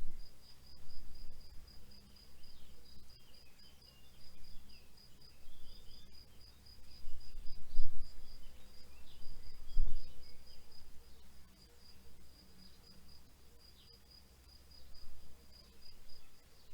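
Field cricket chirping in a steady, rapid pulse, with birds giving short scattered chirps. A low rumbling noise swells and fades underneath, loudest twice near the middle.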